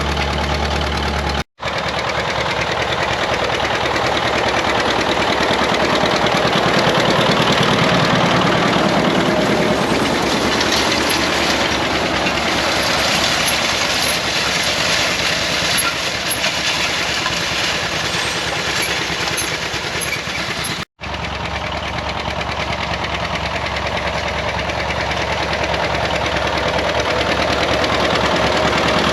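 Farm machinery engine running steadily under work, a dense mechanical drone with a fast rattle in it, breaking off abruptly twice as the sound shifts to a slightly different engine noise.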